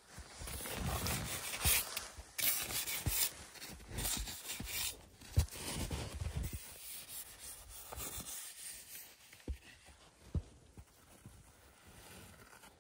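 Snow being crunched and scraped in irregular strokes, with a few short dull thumps.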